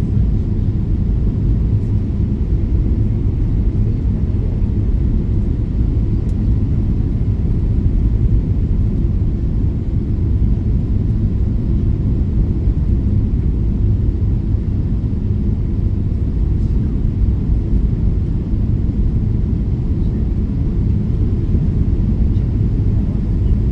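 Steady low rumble heard inside the passenger cabin of a Boeing 777-300ER during landing, with no change in level throughout.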